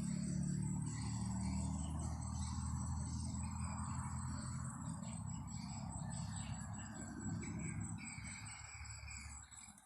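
A steady, high-pitched insect trill with a few short bird chirps over it, and a low rumble that fades out near the end.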